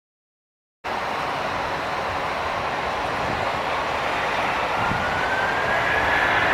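Airbus A330 airliner's jet engines: a steady rush that cuts in abruptly about a second in and grows slowly louder, with a rising whine coming in past the middle.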